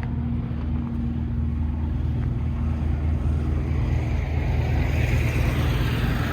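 Heavy diesel truck engine running steadily with a low hum, and a hiss that builds in the second half.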